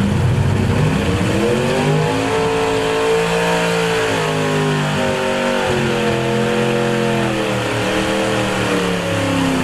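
Small-block V8 pulling truck running at full throttle down the track: the revs climb over the first couple of seconds, then hold high with small swings, sag briefly near the end and pick up again.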